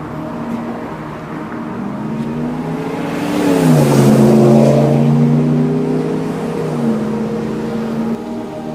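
A motor vehicle passes by: a rush of noise builds to a peak about four seconds in, and its engine pitch drops as it goes past. Background music plays underneath.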